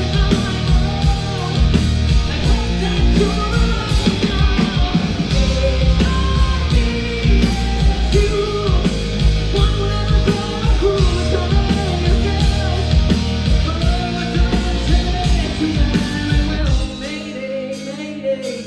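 Live rock band playing with a singer: heavy bass and drums under sung vocal lines, the low end dropping out about three-quarters of the way through.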